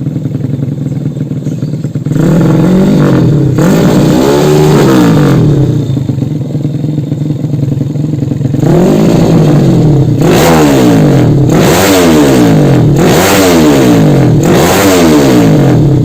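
A motorcycle engine idling, then revved in short throttle blips: two at about two to five seconds in, then a run of about five, one after another, from about eight seconds on.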